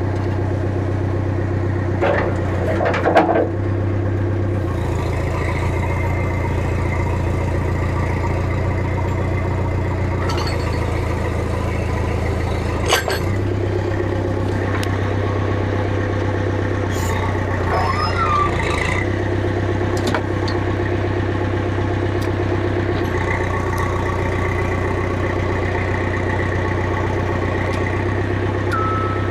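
Cat backhoe loader's diesel engine running steadily. Its note shifts a few seconds in and again about halfway through, with a few knocks, the sharpest about halfway through.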